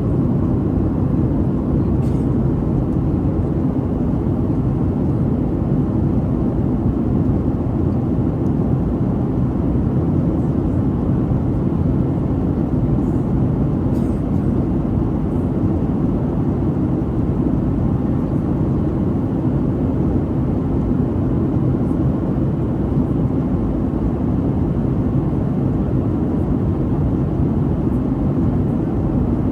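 Boeing 737-800 cabin noise in flight: a steady, unchanging low rumble of the jet engines and airflow.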